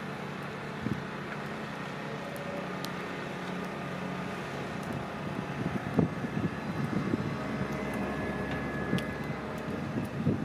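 Rhaetian Railway electric multiple unit moving slowly past at close range: a steady hum from its electric drive with a few steady whining tones. From about six seconds in, a louder rumble of wheels on the rails joins it, with scattered knocks.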